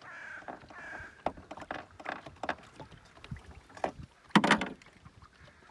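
Knocks and handling clatter in a small fishing boat, with one louder thump a little over four seconds in. A faint high wavering sound comes in the first second.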